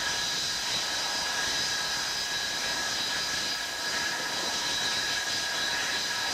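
Avro Vulcan's Bristol Olympus turbojet engines running on the ground: a steady rushing jet noise with a high, constant whine.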